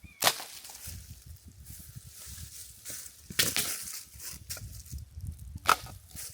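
Three sharp cracks or knocks, near the start, about halfway and near the end, over a low, uneven rumble.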